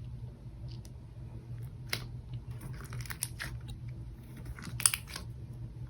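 Slime being handled by hand, giving faint scattered crackles and small clicks, most of them in the second half, over a steady low hum.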